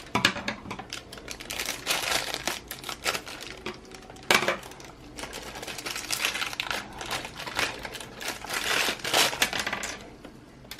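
Hands handling and opening plastic toy packaging: crinkling wrap and small plastic pieces clicking and rattling, irregular throughout, with one sharp click about four seconds in.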